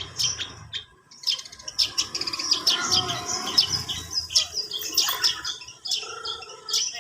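Long-tailed shrike (cendet) singing a rapid run of high chirps and twitters, pausing briefly about a second in and then going on with a dense, varied twittering.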